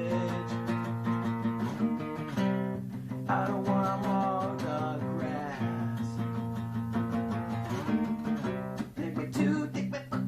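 Acoustic guitar strumming chords in a song.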